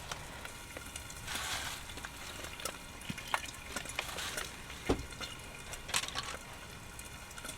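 Pancake batter poured from a shake-and-pour bottle onto a hot pan, with faint sizzling and small crackles. There is a short pouring sound about a second in and a single knock about five seconds in.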